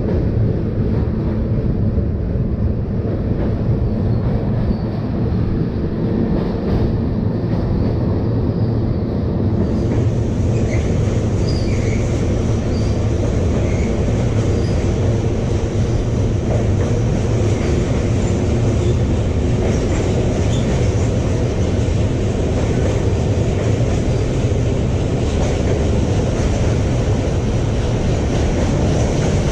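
An LHB-coach express train running along the track: a steady loud rumble of wheels on rail. About ten seconds in, the sound turns hissier, and a few faint, brief high squeals follow.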